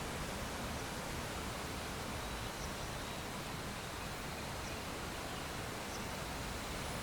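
Steady, even rush of falling water from a waterfall, with a few faint high chirps.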